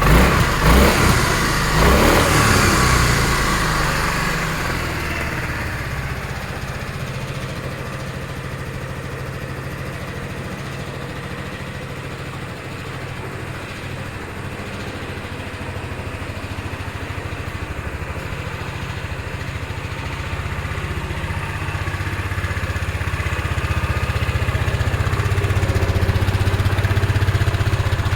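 Yamaha Majesty 250 scooter's single-cylinder four-stroke engine, revved briefly in the first few seconds and then settling to a steady idle, growing louder again toward the end.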